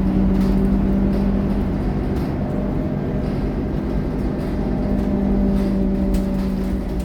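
Scania K230UB city bus's diesel engine running at a steady speed under way, a constant low hum with no gear change or rev change.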